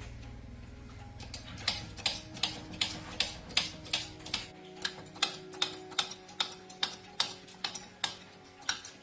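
Sharp, evenly spaced clicks, about two or three a second, over soft background music; a low hum underneath stops about halfway through.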